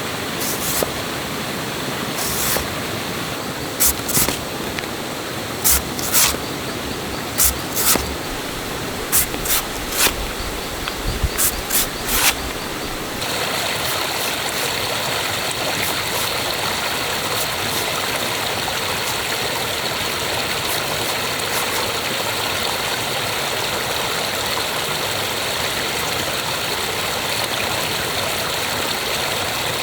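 Fast-flowing stream water rushing steadily, with a series of sharp knocks roughly once a second through the first half. About halfway through the rushing turns denser and steadier and the knocks stop.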